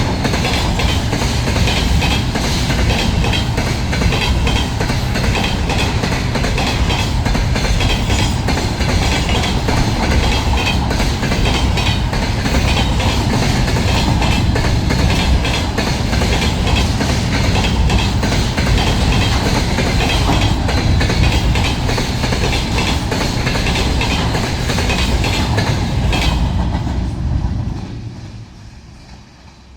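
Freight train of container wagons rolling over a railway bridge, the wheels clattering steadily with a dense run of knocks. Near the end the sound falls away quickly as the tail of the train passes.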